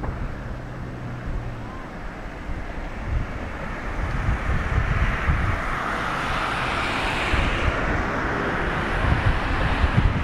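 Distant jet roar of a Boeing 777-200 climbing away after takeoff, a broad rush that swells about four seconds in, with wind gusting on the microphone underneath.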